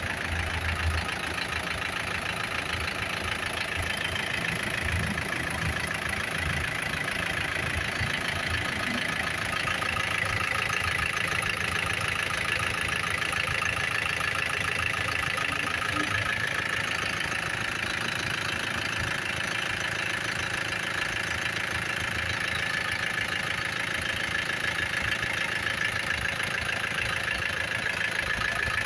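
2013 Isuzu Sportivo's diesel engine idling steadily, with a steady high whine running over the idle.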